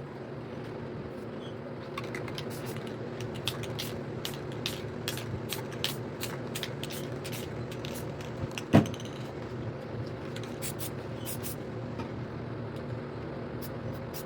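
Spray paint can giving many short, quick hisses in irregular runs over a steady low hum, with one sharp click a little past the middle.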